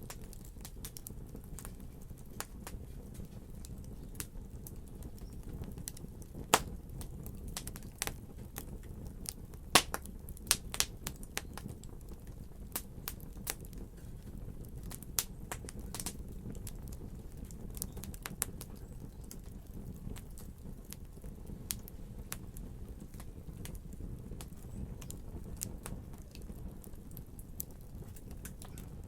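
Wood fire crackling in a fireplace: a steady low rumble of flame under many sharp pops and snaps, with a few louder pops between about six and eleven seconds in.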